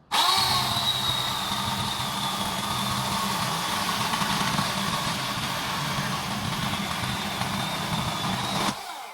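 Chainsaw running at speed, cutting through an oak driftwood stump to take off its roots. It starts suddenly with a brief rise in pitch, holds steady, and cuts off near the end.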